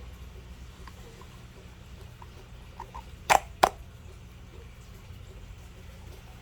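Small handling clicks from the oil filter housing parts being fitted, with two sharp clicks close together about halfway through, over a low steady hum.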